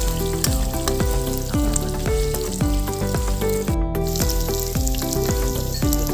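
Chicharong bulaklak (pig intestine) sizzling steadily as it deep-fries in hot oil in a pan, under background music with a melody and a steady beat about twice a second.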